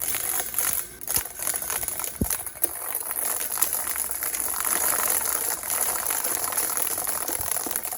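Vintage Tatung 16-inch table fan running, a steady rush of air with a rattling, crackly edge. A couple of sharp knocks in the first few seconds.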